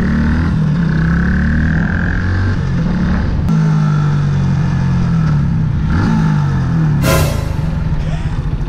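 Yamaha YZF-R125's 125 cc single-cylinder four-stroke engine pulling through the gears on the road, its pitch rising and falling, with a gear change about three and a half seconds in. A short hiss comes about seven seconds in.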